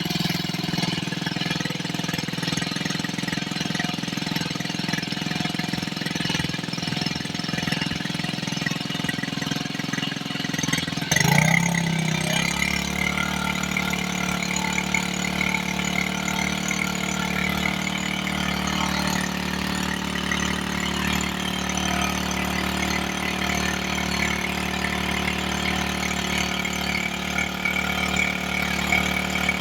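Small gasoline engine of a Koshin SEV-25FG portable engine pump running steadily; about eleven seconds in the engine note shifts with a short surge, then settles and runs steady again.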